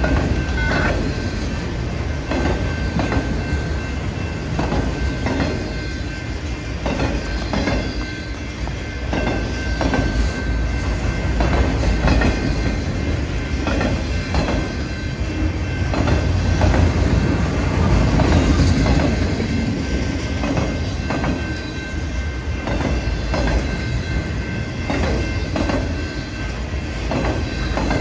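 Freight train of autorack cars passing at speed: a steady rumble of steel wheels on rail with repeated clacks as the trucks cross the rail joints, and a faint thin steady tone over the top.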